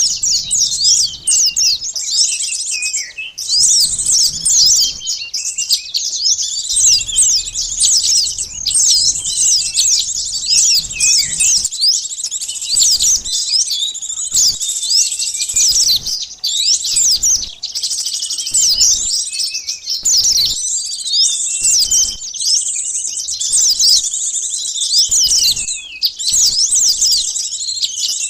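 Bird-lure recording of small songbirds, sunbirds among them: a dense, continuous chorus of many high-pitched chirps and quick descending twitters, overlapping with no pauses.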